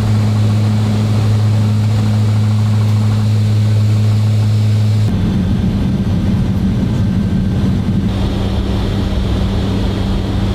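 C-130J Super Hercules turboprops with six-bladed propellers, giving a steady, loud, deep propeller drone. About halfway through, the sound switches abruptly to a rougher, noisier version of the same drone.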